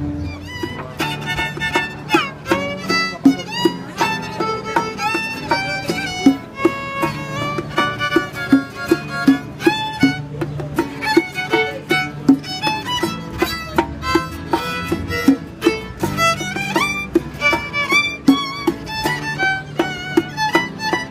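Violin playing a melody with slides and held notes, over a backing track with a repeating bass line and a steady beat.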